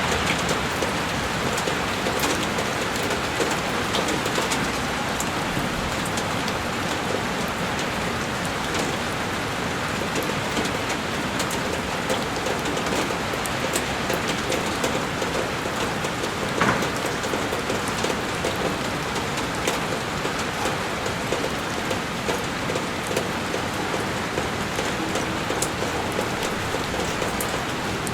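Heavy rain falling steadily on a window, an even hiss with scattered sharper drop ticks and one louder tap about two-thirds of the way through.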